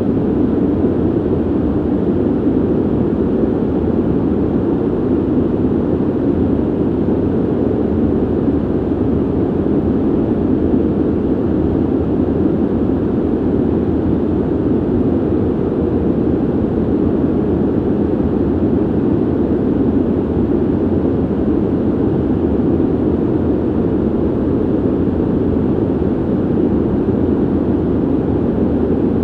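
Ventilation noise: a steady, unbroken rush of air, low and muffled, with little hiss on top.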